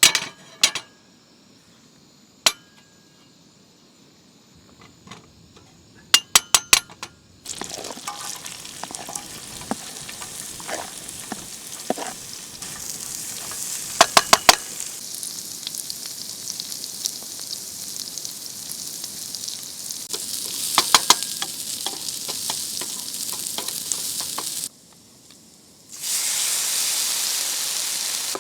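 Chopped red onion sizzling in a hot frying pan, with sharp clinks of a utensil against the pan. A few clicks come first, then the sizzling starts suddenly about seven seconds in; bursts of clinking come about halfway and about two-thirds through, and near the end the sizzle drops out briefly and comes back louder.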